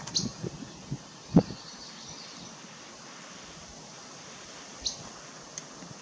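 Three brief, high bird chirps over a steady background hiss, one near the start and two late on. A single low thump about a second and a half in is the loudest sound.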